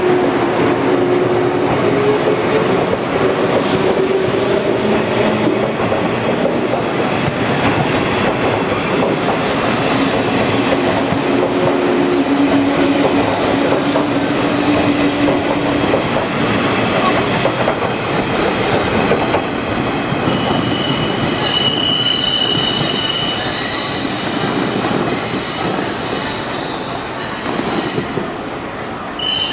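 JNR 115-series electric train running along the platform: a steady rumble of wheels on rail with a low motor and gear hum. From about twenty seconds in, thin high-pitched wheel or brake squeals ring out as it eases off.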